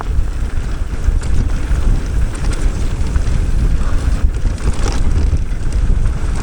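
Wind buffeting the microphone of a mountain bike riding down a dirt trail, a heavy low rumble, with tyre noise on the dirt and a few brief knocks as the bike goes over bumps.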